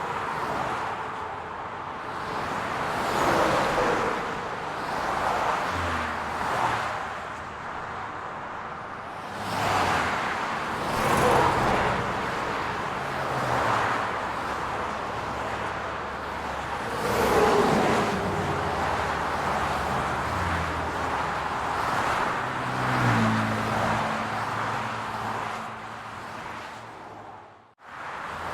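City road traffic: cars passing one after another, each swelling and fading with tyre noise and a falling pitch, with a low engine hum heard more plainly in the last stretch. The sound drops out sharply for a moment near the end.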